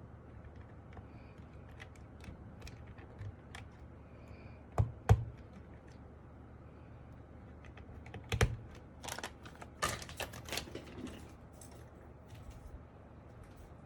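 Keys clicking on an MK870 mechanical keyboard with Sky Panda switches and Cherry-profile dye-sub keycaps, pressed one at a time rather than in fast typing. Two louder strikes come about five seconds in, another a few seconds later, then a short flurry of keystrokes.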